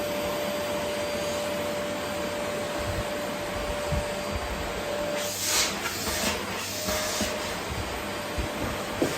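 Vacuum cleaner running steadily, its motor holding one high whine. About five seconds in come a few short, louder hissing rushes of air, and near the end a quick run of clicks starts.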